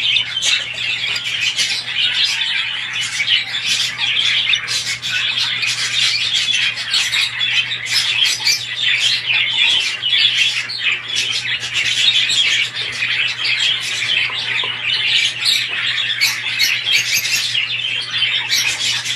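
A flock of budgerigars chattering and squawking without a break, many short chirps overlapping, over a faint steady low hum.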